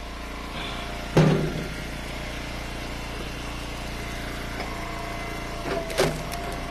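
Engine of an Eastonmade Ultra wood splitter running steadily, with two sharp knocks about a second in and near the end.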